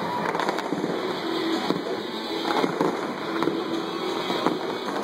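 Fireworks display: a dense crackle of bursting shells with many sharp pops scattered throughout.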